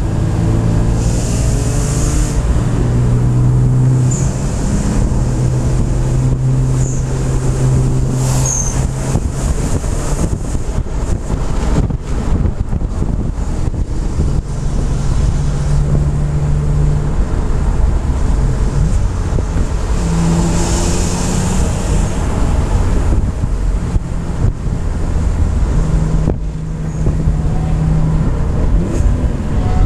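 BMW M3 engine running at road speed, heard from inside the cabin over tyre and wind noise; the engine note holds steady for stretches and shifts pitch in steps.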